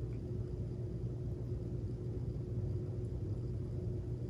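Steady low rumble with a faint, even hum above it: background room noise with no distinct event.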